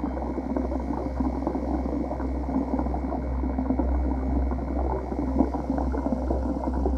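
Steady bubbling and churning water, a dense crackle of bubbles over a low hum.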